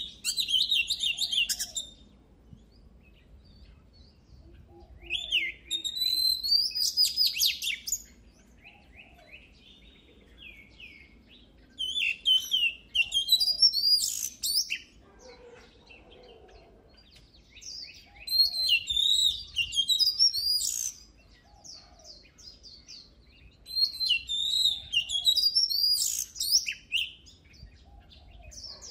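Oriental magpie-robin singing: bouts of about three seconds of loud, varied whistles and fast trilled notes, repeating roughly every six seconds with short pauses between.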